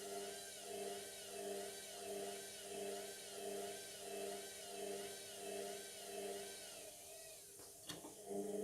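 Indesit washing machine running mid-cycle: a steady motor hum with a rhythmic swish about one and a half times a second as the drum turns. Near the end the hum cuts out with a click, then starts again.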